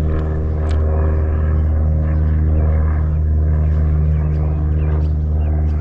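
A motor running with a steady, unchanging low drone, and a few faint clicks over it.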